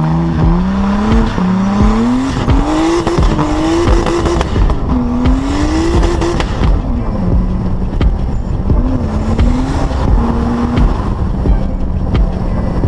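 Nissan 240SX engine heard from outside the car, pulling up through the gears: the engine note climbs and drops back at each upshift about four times, then settles into a steady cruise with one brief rise in revs, over wind and road noise.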